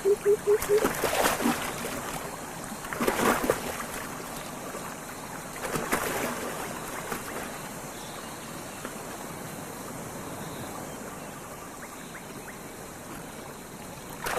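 Water splashing in three bursts over a steady trickle of flowing shallow water.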